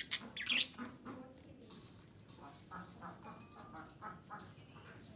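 Female budgerigar chattering, with quick harsh chirps and squawks. The loudest burst is at the very start, then softer chatter follows.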